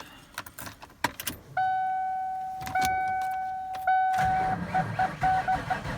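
A few clicks, then a steady electronic warning tone from a truck's dash. About four seconds in, a starter motor starts cranking the engine, and the warning tone breaks up into short beeps.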